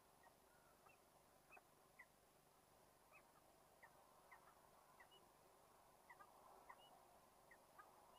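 Faint, short high chirps from a bird, about a dozen at irregular intervals, over a steady low hiss.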